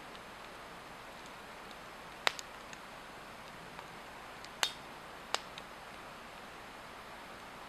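Swedish torch log burning, giving off sharp crackles and pops. Three loud pops about two, four and a half and five seconds in, with a few fainter ticks, over a steady hiss.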